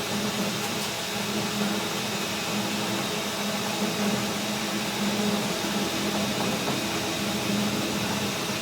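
A machine running steadily, with a low hum under an even hiss.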